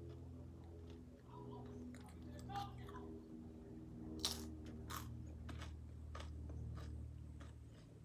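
Close-up chewing of a crunchy tortilla chip: irregular crackling crunches, the loudest two about four and five seconds in, over a low steady hum.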